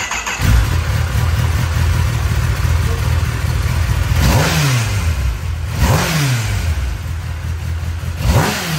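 Kawasaki ZX-10R's inline-four engine idling through its stock exhaust, blipped three times in the second half, each rev rising quickly and falling back to idle.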